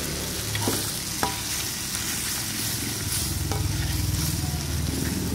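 Balado chili paste with chopped tomato sizzling as it is sautéed in a wok and stirred with a metal ladle, with a few light clicks of the ladle against the pan.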